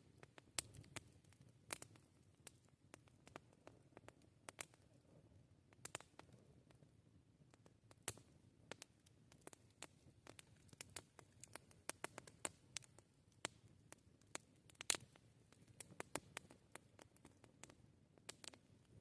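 Campfire crackling: irregular sharp pops and snaps, several a second, over a faint low rumble.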